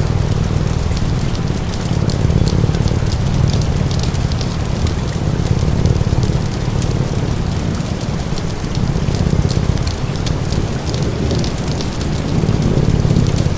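Steady rain falling, with crackling wood fire snaps scattered throughout, over a low cat purr that swells and eases every few seconds.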